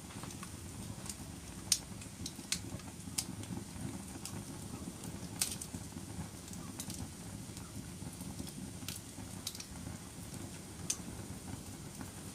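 Wood fire burning in a fireplace: a steady low rumble of flames with sharp crackles and pops about once a second.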